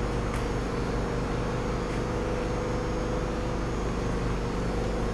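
Dodge Ram 3500's 5.9-litre turbo diesel engine idling steadily, a constant low hum.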